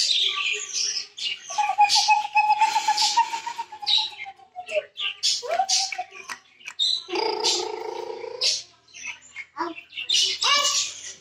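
Young budgerigar chicks chirping and squawking in irregular bursts of harsh, high calls.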